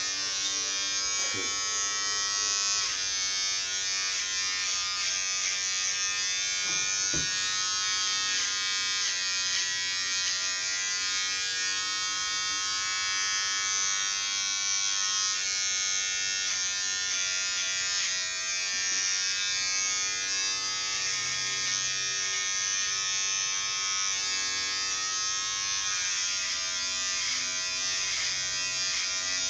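Electric hair clippers running steadily while cutting hair, a continuous buzz that drifts slightly in pitch. A brief click about seven seconds in.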